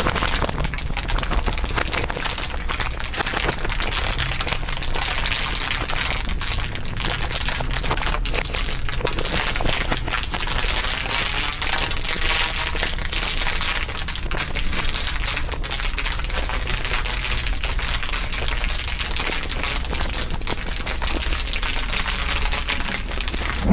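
Several layers of crinkling mixed together, a dense, continuous crackle of fast overlapping clicks at an even level, with a low steady hum underneath.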